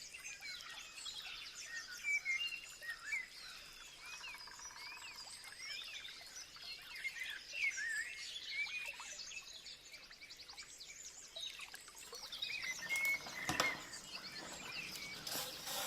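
Several birds chirping in the background, many short rising and falling calls overlapping throughout, with a single sharp knock a little past halfway through.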